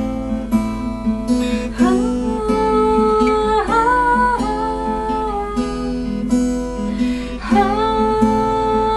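Acoustic guitar strummed under a woman singing long held notes that slide from one pitch to the next.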